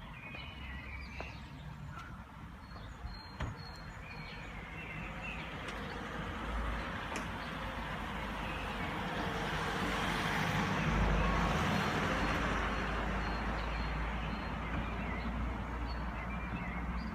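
A car's engine and tyre noise growing steadily louder as it approaches, peaking about two-thirds of the way through and then easing slightly as it passes: plausibly the Koenigsegg Agera R's twin-turbo V8. Faint bird chirps in the background.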